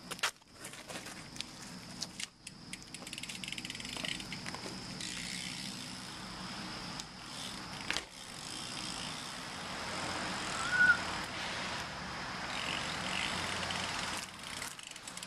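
Night-time insects trilling steadily on one high note, with a few knocks from the camera being set down at the start. A rushing noise builds through the middle and drops off near the end, and a brief squeak comes about eleven seconds in.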